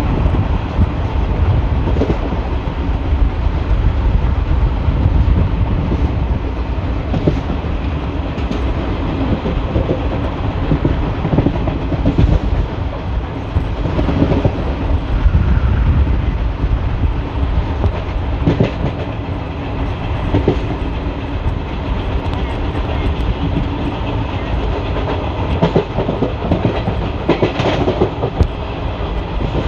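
ICF passenger coach running over the track: a steady rumble of wheels on rail, broken by irregularly spaced clanks and clicks as the wheels cross rail joints.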